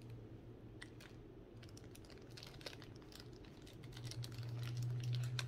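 Biting into and chewing a strawberry double-decker Moon Pie held in its crinkly plastic wrapper: scattered soft clicks, crinkles and mouth sounds, over a low steady hum that grows louder near the end.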